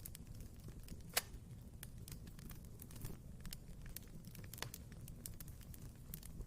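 Wood fire crackling in a fireplace: a low steady rumble of flames with irregular sharp pops and snaps, one louder pop about a second in.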